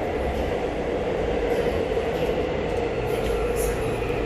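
Steady running noise of a Seoul subway train, heard from inside the passenger car.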